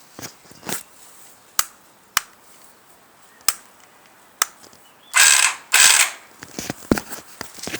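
Motorcycle starter motor: scattered sharp clicks, then about five seconds in two half-second bursts of the starter gears spinning with a grinding whir, without turning the engine over. The bike won't start, which the owner puts down to a sticking starter solenoid.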